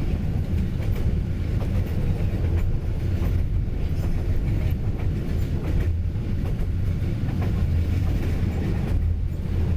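Train running along the railway track: a steady, low rumble of the cars and wheels on the rails.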